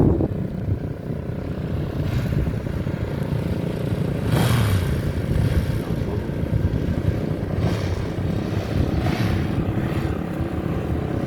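Motorcycle engines running nearby, a steady low rumble. A few brief louder swells come about four and a half, eight and nine seconds in.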